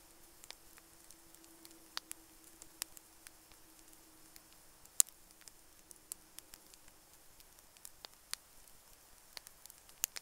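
Wood campfire crackling, with irregular sharp pops and snaps, the loudest about halfway through.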